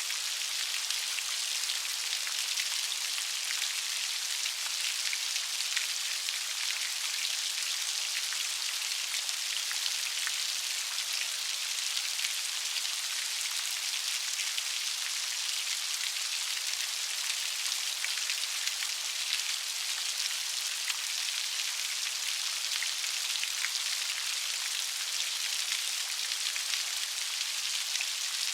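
Steady light rain: an even hiss of many small drops pattering on a surface, with no thunder.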